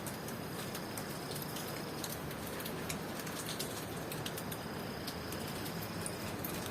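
Steady tropical rain falling, with many close drops tapping sharply. A cricket trills on one high note in two long spells, from near the start to about two seconds in, and again from about four seconds in to near the end.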